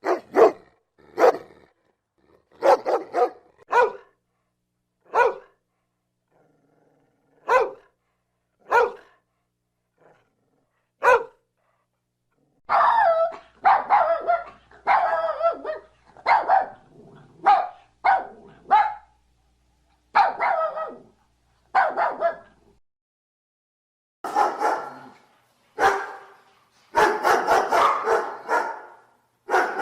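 Dog barking: single barks a second or two apart at first, then quicker runs of barks from about halfway, densest near the end.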